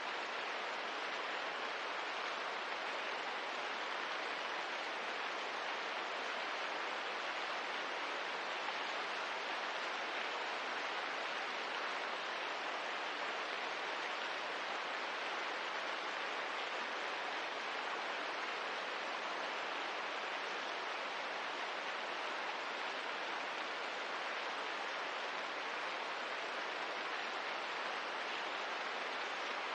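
Steady rain, an even hiss with no separate drops or crackles standing out.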